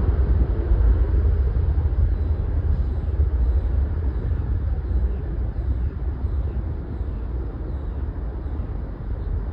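Airbus A321 jet engines rumbling as the airliner climbs away after takeoff, the deep roar slowly fading.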